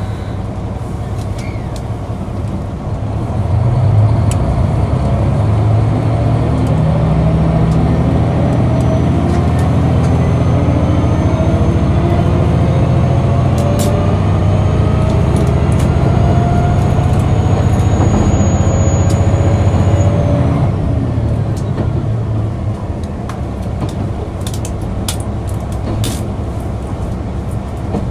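KiHa 261 series diesel railcar's engine opening up about three and a half seconds in and pulling hard, with a whine rising in pitch as the train gathers speed, then easing back to a lower drone about twenty seconds in.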